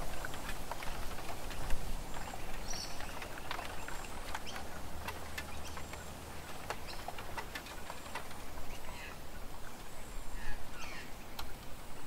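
A few short bird calls, some falling in pitch, scattered among many sharp clicks and taps.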